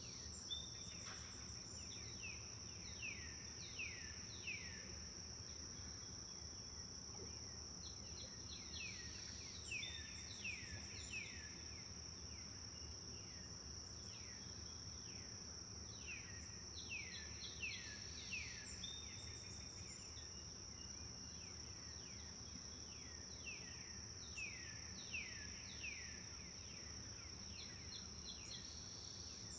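Forest ambience: a steady high-pitched insect drone, like crickets, with a songbird singing short runs of quick descending whistled notes, about four phrases several seconds apart.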